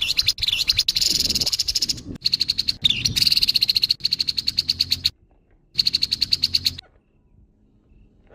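Grey-headed babbler giving its harsh call: a fast, buzzy rattle of rapidly repeated notes lasting about five seconds, then after a short pause one more burst of about a second.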